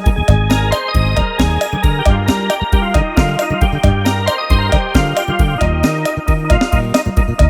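Electone (electronic organ) playing fast lam sing music, held organ-like keyboard notes over a heavy bass line and a steady fast drum beat.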